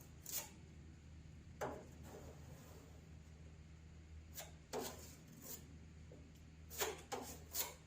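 Short, faint scrapes and taps of a tool working fiberglass filler onto a car hood, about seven in all, coming in a cluster near the end, over a steady low hum.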